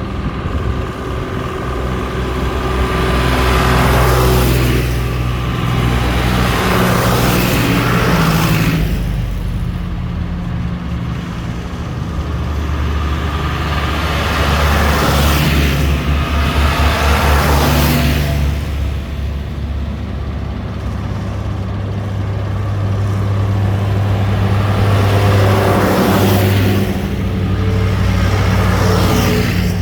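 Tractors driving past one after another, their engines running steadily, the sound swelling and fading five or so times as each goes by.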